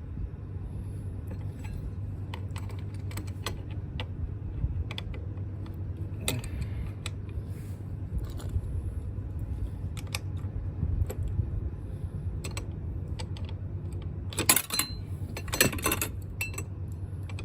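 Metal hand tools and small scooter parts clinking and clicking during work on the CVT drive, scattered sharp ticks with two short clattering bursts near the end, over a steady low hum.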